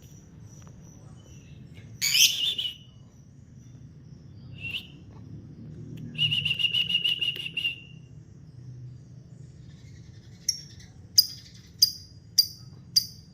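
Lovebird calling: a loud shrill screech about two seconds in, a short call near five seconds, then a rapid chattering trill for about a second and a half. From about ten seconds in it gives a run of sharp high chirps, a little more than one a second.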